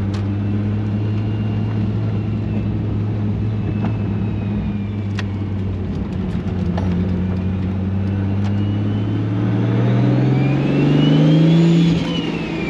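Toyota Supra engine heard from inside the cabin, running steadily at low revs while the car is driven slowly. About ten seconds in the revs rise under power, then ease off near the end.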